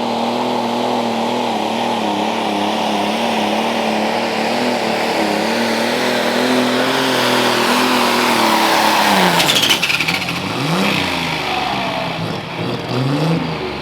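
Pulling tractor's engine running flat out under load down the track, its pitch holding high with a slight waver. About nine and a half seconds in, the revs fall away as the weight box drags it down, then the engine rises and falls a few times as it comes off the throttle.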